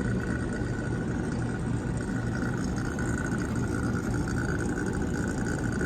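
HVAC blower motor running steadily in fan-only mode on a newly changed speed setting: an even hum with a thin steady whine above it.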